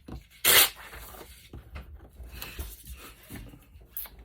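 A strip of paper torn by hand in one quick rip about half a second in, followed by lighter rustling and crackling as the paper is handled.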